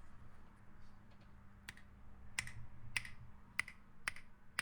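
Finger snaps, faint and sharp, about one every half second from under two seconds in, made to test that the dummy-head microphone still works after reassembly. A faint steady hum lies underneath.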